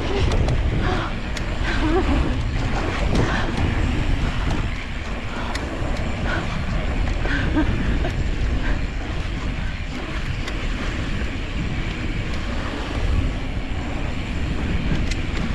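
Wind buffeting the microphone of an e-mountain bike ride at speed, over tyres rolling on dirt and rock, with scattered clicks and rattles from the bike going over bumps.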